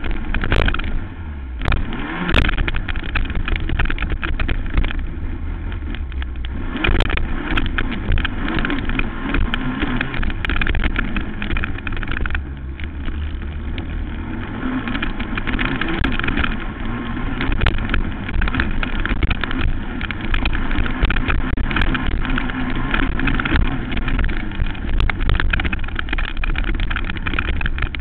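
Racing quad (ATV) engine running hard and revving during a motocross race, with scattered sharp knocks throughout.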